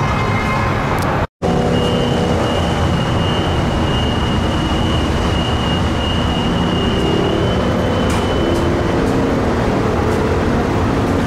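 Tri-Rail diesel commuter train idling at the platform, a loud steady rumble, with a steady high-pitched tone sounding for about six seconds. The audio drops out abruptly about a second in.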